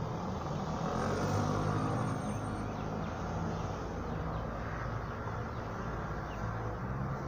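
A vehicle running, a steady low hum, with a faint high whine for a second or two about a second in.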